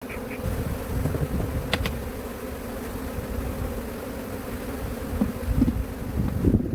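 Many bees buzzing around a hive in a steady hum, over uneven low rumbling.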